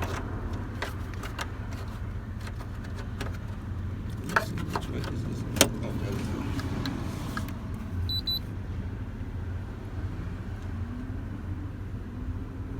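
GMC Yukon running: a steady low rumble with scattered light clicks, a brief high double beep about eight seconds in, and a faint rising note near the end.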